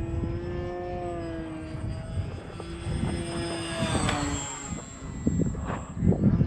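Electric RC airplane's motor whining in flight overhead, its pitch rising slightly and then dropping about four seconds in as it passes. Gusty wind buffets the microphone throughout, with heavier low thumps near the end.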